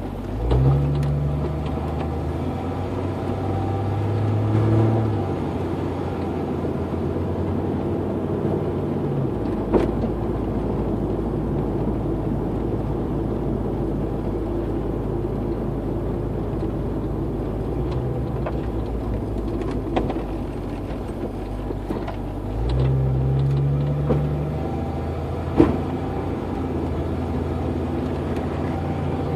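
1992 Jeep Cherokee's 4.0-litre straight-six, breathing through a 2.5-inch exhaust and a Thrush Turbo muffler, driving along. The exhaust drone swells under acceleration about a second in and again near the end, with steady cruising between and a couple of sharp knocks.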